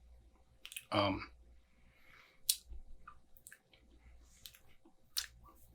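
Faint mouth clicks and lip smacks from a person tasting beer, with a short voiced hum about a second in.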